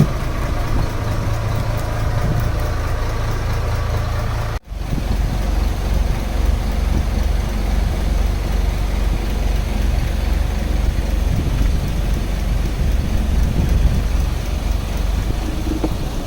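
Fishing boat's engine running at idle: a steady low drone that drops out for an instant about four and a half seconds in, then carries on slightly rougher.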